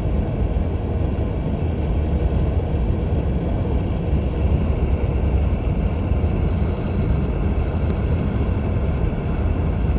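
Steady wind noise from the front door windows of a 2020 Toyota Highlander Platinum at about 75 mph, heard inside the cabin with the low rumble of the road: a constant loud rush that the owner calls pretty bad, worst on the driver's side. He is unsure whether a door seal or window seal is at fault.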